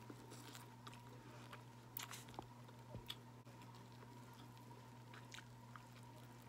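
A person eating crab legs, quietly chewing with soft mouth clicks, and a few sharper clicks about two to three seconds in, over a faint steady hum.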